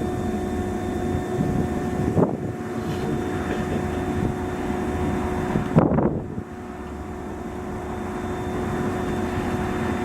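Hokuso Railway 7260 series electric train running at speed, heard from inside the carriage: a steady rumble with a constant hum of several steady tones, and two sharp knocks about two and six seconds in.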